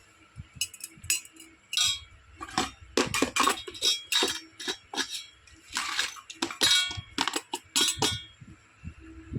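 Small toy dishes and utensils from a miniature kitchen set clinking and clicking as they are handled and set down, in quick irregular taps, some with a short ring.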